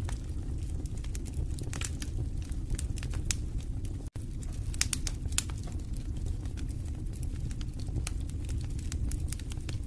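Wood fire in a fireplace burning with a steady low rumble and irregular sharp crackles and pops. The sound cuts out for an instant about four seconds in.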